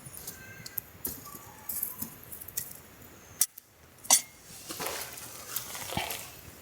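Light clinks, taps and knocks of camp gear being handled, with a louder sharp tap just past halfway and a spell of rustling near the end.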